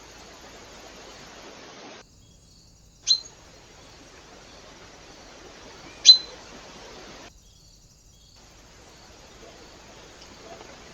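Two short, sharp bird calls about three seconds apart, over the steady hiss of a trail camera's microphone.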